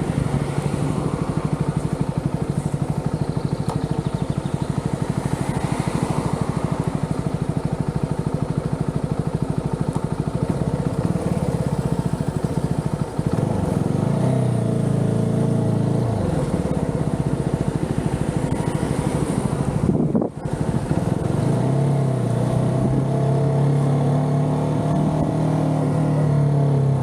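Motorcycle engine running while riding, its pitch rising and falling with the throttle. The sound dips briefly about 13 seconds in and drops out sharply for a moment around 20 seconds in.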